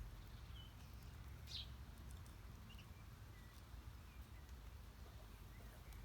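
Faint, scattered bird chirps, half a dozen short calls with one a little louder about one and a half seconds in, over a low steady rumble.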